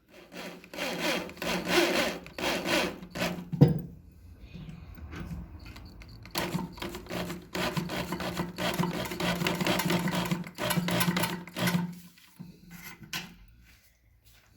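Electric drill running in two long bursts, the first about 3 s and the second about 6 s, with a steady motor hum under a gritty grinding rasp, fixing caster wheels to a cement planter with wall plugs and screws. A single sharp knock comes between the bursts.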